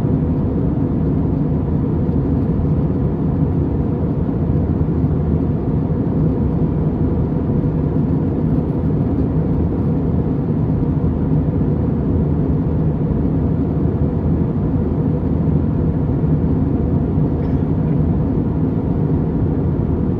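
Airliner cabin noise in flight: a steady, loud low drone of engines and airflow heard from inside the passenger cabin.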